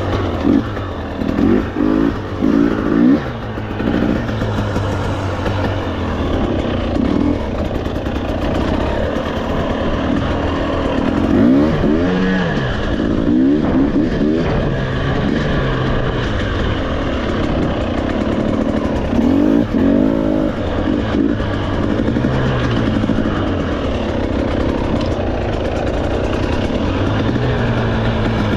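Off-road motorcycle engine running under a rider on a trail, revving up and down with the throttle. There are several quick blips in the first few seconds and longer rising-and-falling revs later.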